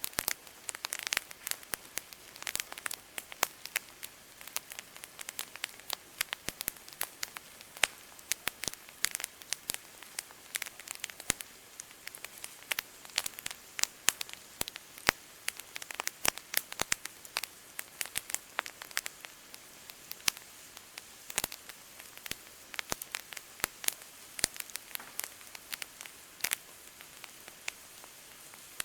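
Wood campfire crackling, with dense, irregular sharp pops and snaps over a soft steady hiss.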